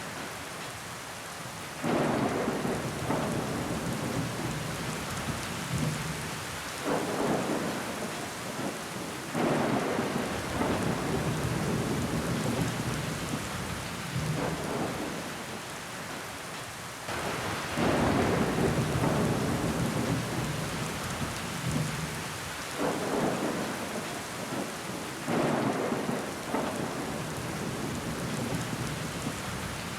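Steady rain falling on a window, with water trickling down the glass. Heavier swells come in suddenly every few seconds and fade away again.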